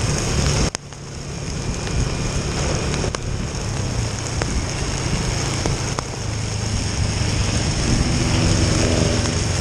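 Motorcycle engine running while riding, with wind rushing over the microphone; the engine grows louder near the end.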